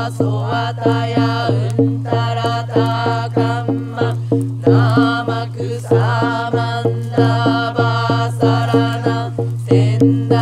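Mantra chanting sung over a steady low drone, with a regular beat of about three strikes a second.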